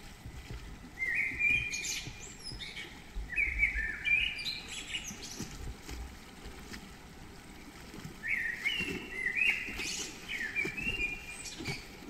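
A songbird singing three phrases of quick, high chirping notes, each phrase stepping down in pitch, a few seconds apart.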